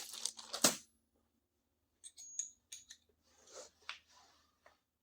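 Scattered sharp clicks and light rustling from handling the dent puller's welding gun and the studs or washers being set on the dent. The sharpest click comes just under a second in.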